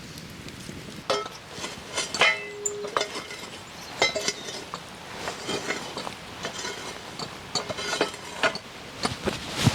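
Irregular clinks and knocks of utensils against cookware, a few ringing briefly, the loudest near the end.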